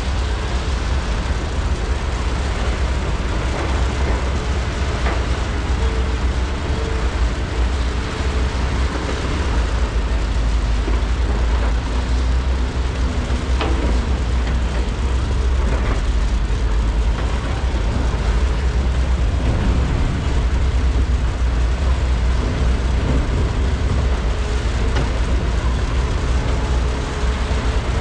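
Diesel engines of large hydraulic excavators (a Komatsu PC395 and SANY SY485Hs) running steadily under load while loading, a deep continuous drone with faint steady tones above it. A single sharp knock about 14 seconds in.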